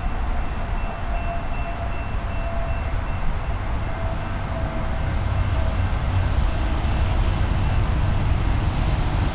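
Low, steady rumble of an approaching BNSF double-stack intermodal freight train's diesel locomotives, slowly growing louder, with a faint steady high tone over it.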